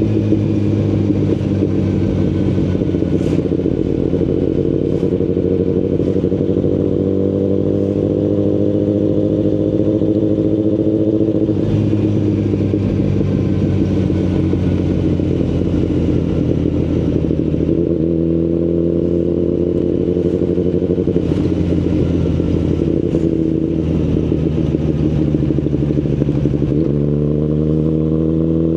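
2019 Kawasaki Ninja ZX-10RR's inline-four engine running through an Akrapovic Evolution Line carbon full exhaust while being ridden at low to moderate revs. The pitch climbs slowly for about ten seconds, drops abruptly, rises and falls again, and climbs quickly near the end as the throttle is opened.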